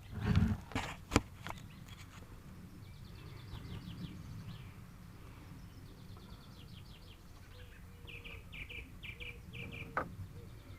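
Garden birds singing, with short series of quickly repeated high chirping notes, over a steady low outdoor rumble. A few loud knocks sound in the first second.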